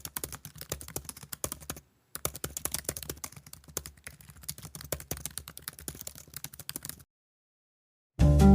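Typing on a computer keyboard: quick, irregular key clicks, with a short pause about two seconds in, stopping about a second and a half before the end. Louder acoustic guitar music starts just before the end.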